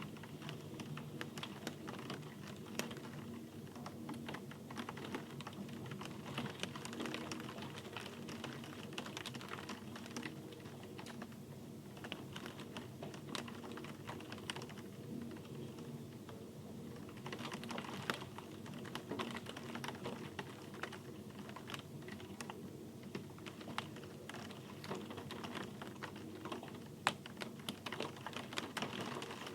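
Rain falling steadily, with many close, irregular drops ticking sharply on a hard surface over a soft, even hiss.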